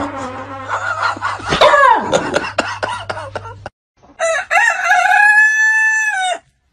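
A rooster crows once, starting about four seconds in: a long call held steady that drops off at the end. Before it comes the loudest part, a jumble of high, wavering vocal sounds and sharp clicks that stops abruptly.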